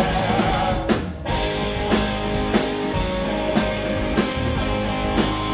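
Live rock band playing an instrumental passage, with guitar and drum kit keeping a steady beat. The band briefly cuts out about a second in, then comes back in.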